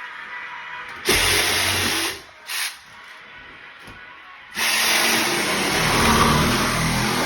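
A power tool running in bursts: one run of about a second starting a second in, a brief blip, then a longer run from just past the middle.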